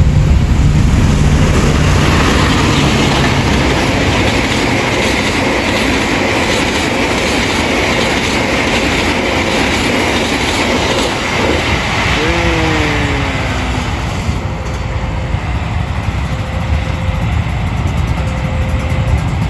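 A short passenger train passes close by over a level crossing: a loud, steady rumble and rattle of wheels on rail that eases a little as the last carriages go by. It runs slowly, which the onlooker takes for slowing to switch tracks.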